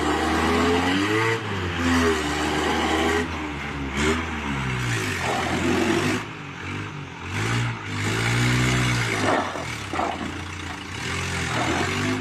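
An engine revving up and down repeatedly, its pitch rising and falling several times, over a steady hiss.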